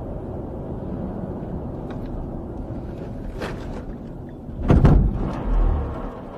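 Steady low engine and road rumble from a moving vehicle. About three-quarters of the way through it is broken by a sudden loud bang, followed half a second later by a second, duller heavy thud.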